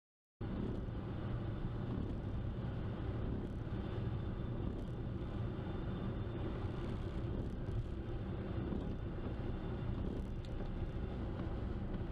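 A car driving, heard from inside the cabin through a dashcam's microphone: a steady low rumble of engine and tyre noise that starts abruptly about half a second in, after a short stretch of dead silence.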